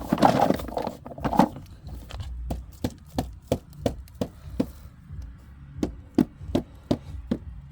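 A hard object is knocked repeatedly: a short scuffle, then sharp, evenly spaced knocks at about three a second.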